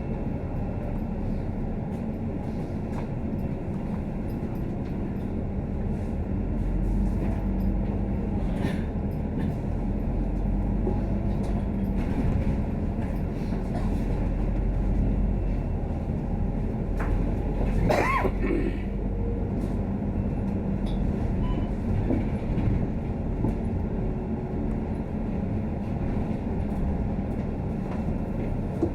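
Scania K310UD double-decker bus running, heard from inside: steady engine and road rumble, with a heavier low drone coming in about six seconds in. A short squeal about two-thirds of the way through.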